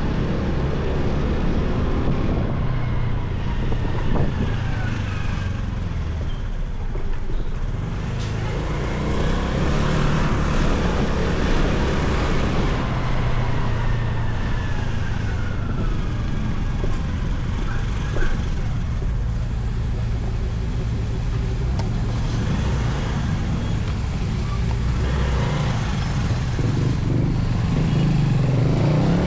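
Motorcycle engine running steadily at riding speed, with street traffic around it; a few tones glide up and down and then fade.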